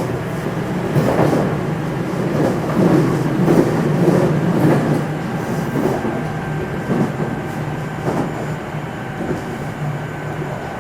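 Running sound inside a JR West 227 series electric train's motor car: wheels rumbling and clacking over the rail, with a faint steady tone in the second half.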